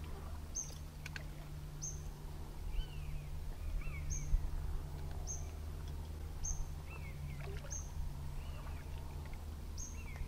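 Small birds calling: a short, high note repeated about once a second, with a lower, arching note now and then. Under them runs a steady low rumble, and there is one brief knock about four seconds in.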